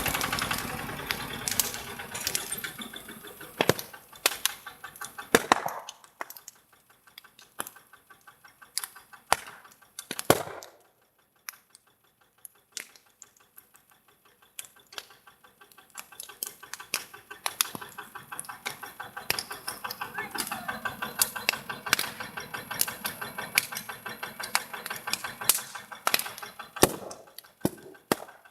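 A tractor engine running fades away over the first few seconds. After that come scattered sharp pops and crackles of a burning fire, irregular and thicker in the later part.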